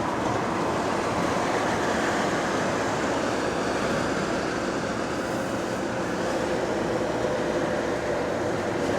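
Cabin noise of a London bus on the move: a steady rumble of road and tyre noise with a faint steady whine. There are no creaks or knocks from the suspension, which has been repaired.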